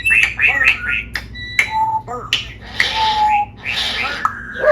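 Pet parrot making a run of sharp clicks and short whistled chirps, then two longer raspy calls in the second half.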